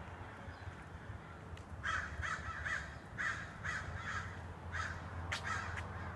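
Birds calling, a run of short repeated calls starting about two seconds in, roughly two a second, over a low steady hum.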